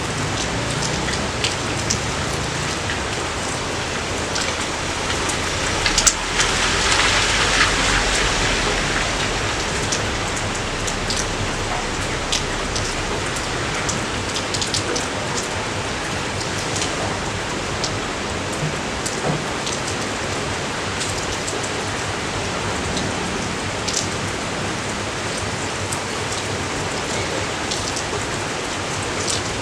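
Steady rain falling, with individual drops ticking sharply over an even hiss. It grows briefly heavier about six seconds in, then settles back.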